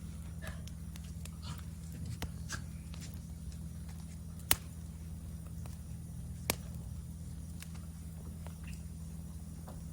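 Wood fire crackling, with scattered small pops and two sharper cracks about two seconds apart near the middle, over a low steady hum.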